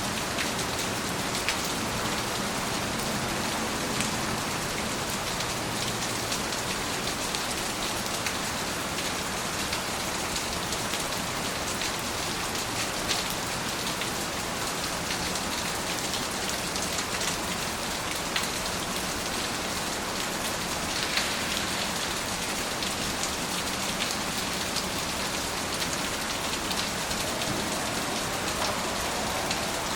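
Steady rain falling, an even wash of hiss with many small drop ticks on a surface.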